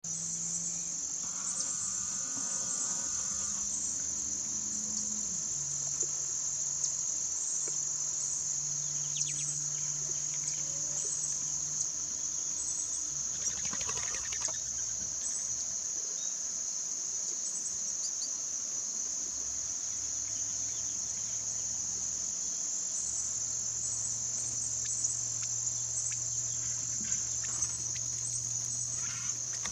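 Steady, high-pitched chorus of insects trilling without a break, with a few faint bird chirps now and then.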